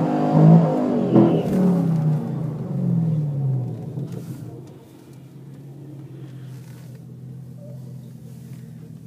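V8 muscle-car engines revving hard, the revs climbing and then falling away over the first few seconds. From about halfway a V8 idles steadily, heard from inside the car's cabin.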